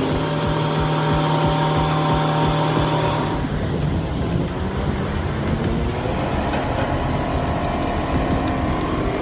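Heavy vehicle engine running steadily, with an abrupt change in the sound about three and a half seconds in, after which a fainter engine drone carries on.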